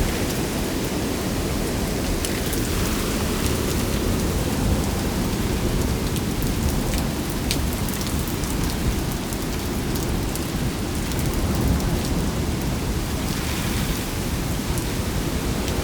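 Heavy downpour in a windy storm: a steady rushing of rain with a strong low rumble underneath and scattered sharp ticks of drops striking nearby surfaces.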